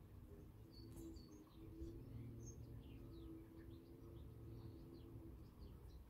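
Garden birds chirping and singing faintly, many short calls scattered throughout, over a steady low hum.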